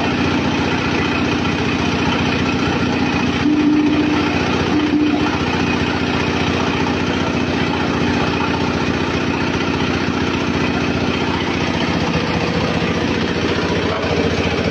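Pellet-making machine running steadily, a fast even engine-like drone. A short higher tone sounds twice, about four and five seconds in.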